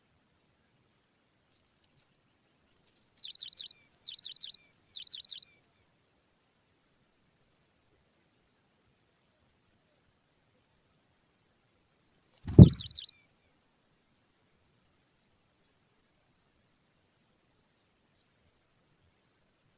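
Pipit nestlings giving shrill, rapid begging calls in three short bursts, then again about twelve seconds in with a loud low thump. Faint high ticking chirps run underneath.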